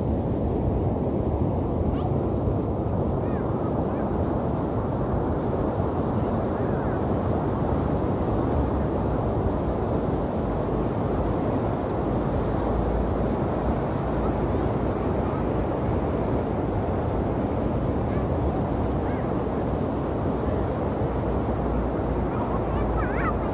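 Steady, unbroken rumble of wind and surf at the sea's edge, with wind buffeting the microphone.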